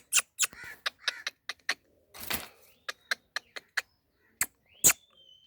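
Parrot making a run of sharp clicks, with a short harsh rasp about two seconds in and a brief high whistle near the end.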